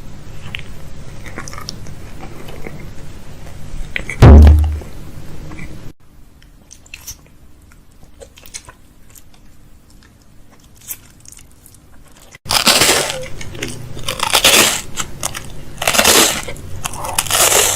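Crinkling and crunching of food packaging and containers being handled, with a heavy thump just after four seconds in. The sound drops off suddenly about six seconds in, then turns loud and crinkly again at about twelve seconds.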